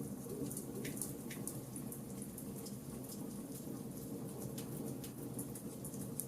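Charcoal campfire crackling: scattered small, sharp pops and ticks at irregular intervals over a low, steady rumble.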